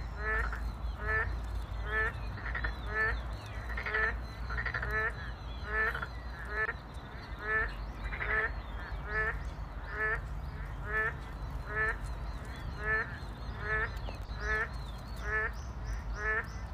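Frogs calling: a steady, regular series of short, pulsed croaks, a little more than one a second, with fainter calls from other frogs behind them and a low steady rumble underneath.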